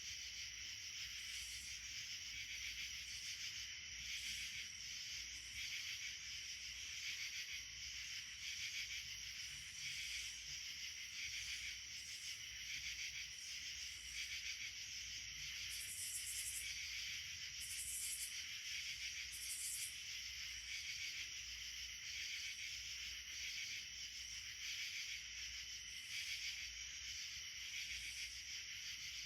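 Steady chorus of insects, a dense high-pitched buzzing and trilling that pulses roughly once a second, with three short, higher buzzes a little past the middle.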